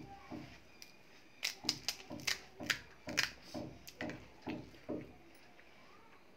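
Crisp fried pani puri shells crunching while being chewed, in a steady rhythm of about two chews a second, with a quick run of sharp crackles in the middle that dies away about five seconds in.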